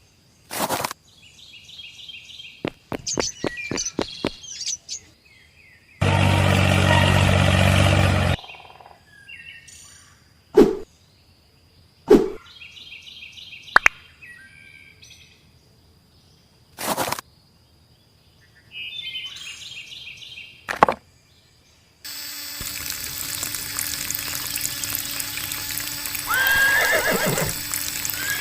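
A string of short sounds: bird-like chirps, sharp clicks and a loud buzz lasting about two seconds. About three-quarters of the way through, a small DC motor water pump starts and keeps running steadily, with a whirring hum and the rush of water.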